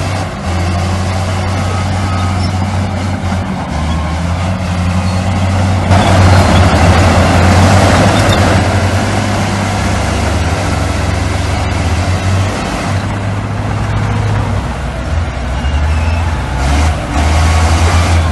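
Heavy diesel earthmoving machinery, bulldozers and dump trucks, running with a steady low engine hum. About six seconds in, a louder rushing noise rises over the engines for about two and a half seconds.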